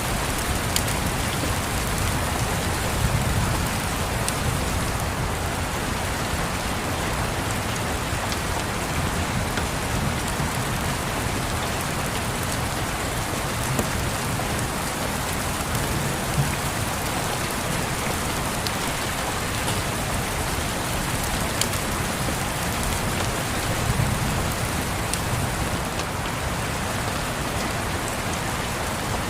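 Steady rain on windows, with scattered small pops from a crackling wood fire. A low rumble of soft distant thunder swells a few times.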